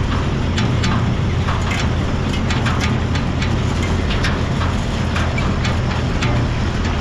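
Small old tractor engine running steadily while pulling a hay rake, with frequent irregular clicks and rattles over the engine note.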